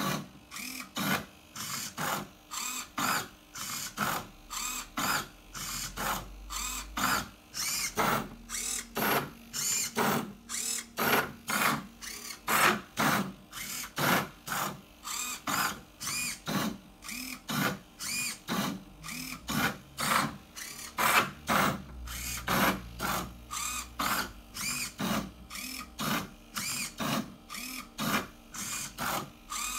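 A 3D-printed Rubik's Cube solving robot's motors turn the cube's faces in quick succession. Each move is a short whirr, about two a second, in an even, unbroken run.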